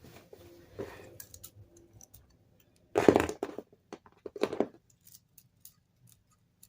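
Lego spinning tops whirring with a faint steady hum. They then clash in two loud plastic clatters about three and four and a half seconds in, followed by scattered small clicks of Lego pieces.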